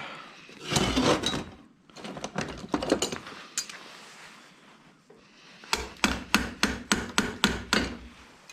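Hammer blows on scrap metal: some handling and a few clicks, then a quick run of about nine sharp strikes, roughly four a second, near the end, as a part is knocked loose.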